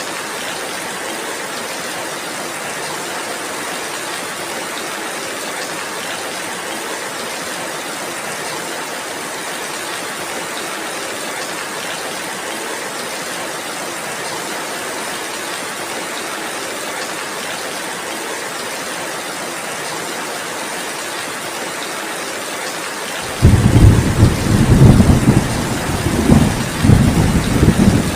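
Steady heavy rain, with a loud low rumble of thunder breaking in suddenly near the end and rolling on in several surges.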